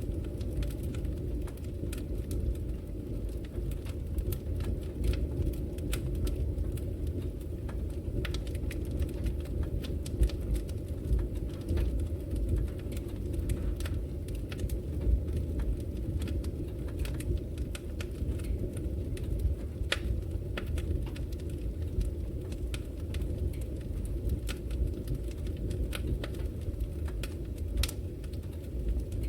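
Wood logs burning in a fireplace: a steady low rumble of the fire with frequent, irregular sharp crackles and pops.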